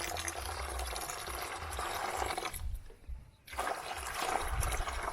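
Warm water being poured into a basin in two pours, with a short break about two and a half seconds in.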